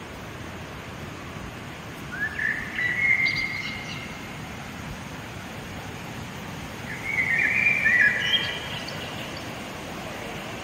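A bird singing twice, about two and seven seconds in, each phrase a rising note followed by held high notes, over a steady outdoor background hiss.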